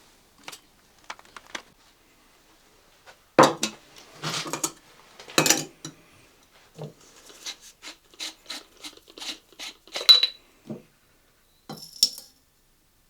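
Kitchenware and utensils being handled: a loud knock about three seconds in, clattering clinks, then a run of quick light taps and clinks, with a sharp clink near 10 s and another near the end.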